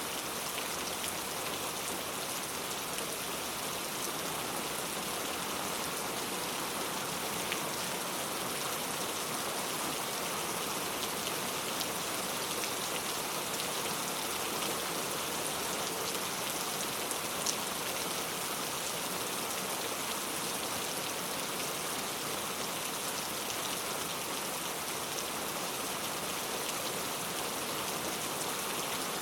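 Heavy rain falling steadily, a dense even hiss of drops with the odd faint drip standing out.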